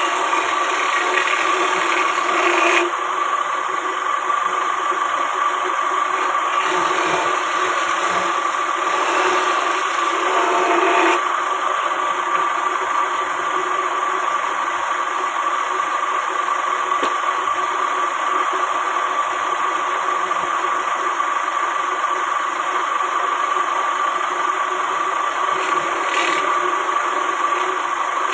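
A machine running steadily with a constant hum, briefly louder twice in the first eleven seconds.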